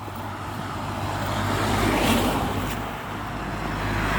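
Cars driving past one after another: engine and tyre noise swells to a peak about two seconds in, eases, then swells again near the end as a second car goes by.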